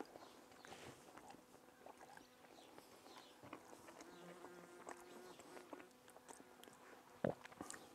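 Faint chewing and mouth sounds with scattered small clicks, a short low buzz of a flying insect about four seconds in, and one sharper click near the end.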